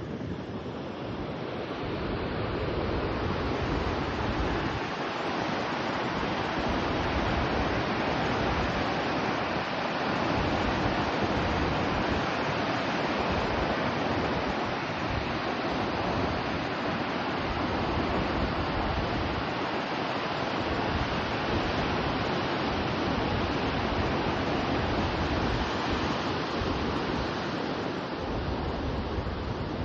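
Loud, steady rushing of water, with uneven low rumbling underneath.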